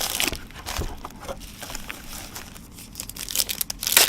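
Trading-card pack wrappers crinkling and cards rustling as packs are opened and handled. The crackle grows louder near the end.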